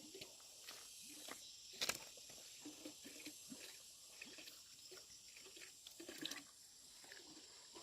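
Faint, scattered soft wet clicks and squishes of ripe jackfruit flesh being pulled apart and eaten, with one sharper click about two seconds in.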